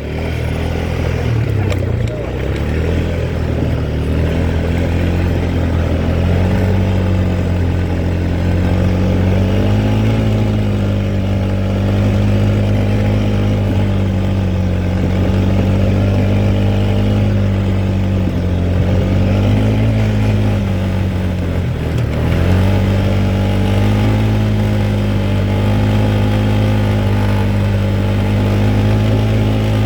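Quad bike engine running under way, its note holding fairly steady with small rises and falls in revs as the throttle changes, and a brief drop in revs a little over 20 seconds in before it picks up again.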